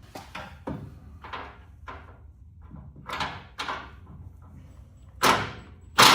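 A series of separate metallic knocks and clanks, each ringing briefly, as tools and parts are worked during hands-on assembly on a car. The last two, near the end, are much louder than the rest.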